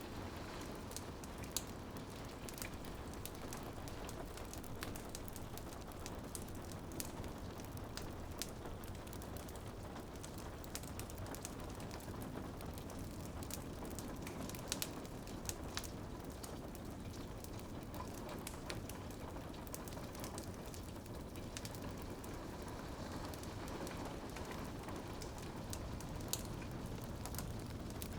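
Steady rain pattering on a window together with a crackling wood fire, scattered sharp pops and clicks standing out over the even hiss of the rain.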